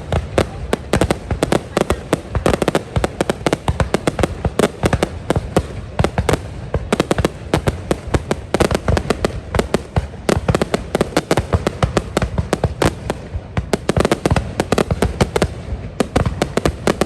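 Fireworks display: a dense, continuous barrage of bangs and crackles going off in rapid succession.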